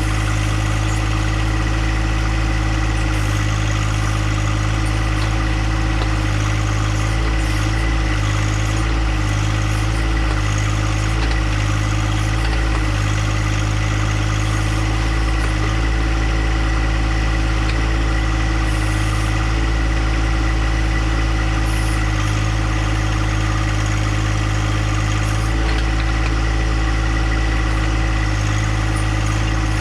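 Compact John Deere tractor engine running steadily at an even speed.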